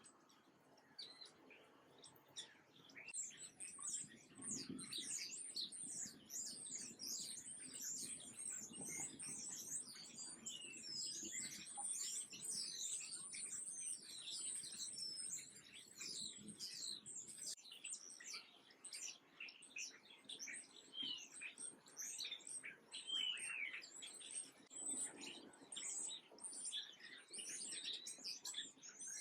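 Many small birds chirping together in a dense, overlapping chatter of short, high, quick chirps that builds up about three seconds in.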